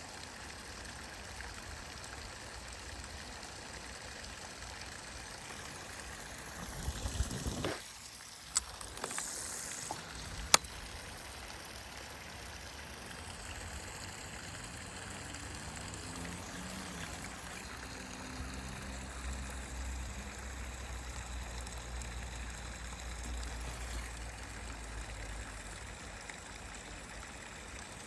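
Creek water flowing and trickling steadily. About seven seconds in there is a brief rustle with a few sharp clicks, and a low rumble runs through the second half.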